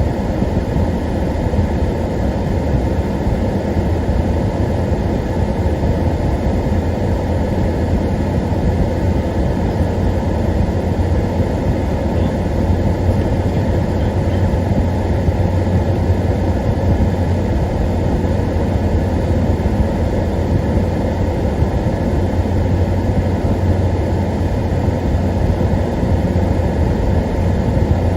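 Car driving at a steady pace: an even low rumble of engine and tyres on the road, heard from inside the cabin.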